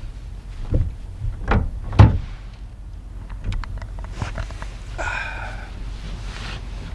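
Pickup truck tailgate being handled and let down: three sharp thuds about half a second apart, the third the loudest, then a short creak a few seconds later, over a steady low rumble.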